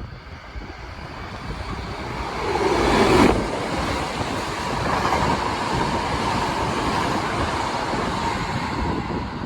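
Shinkansen bullet train passing at high speed. A rushing roar builds, peaks sharply with a sweep in pitch about three seconds in as the nose goes by, then holds as a steady roar of the cars streaming past before easing off near the end.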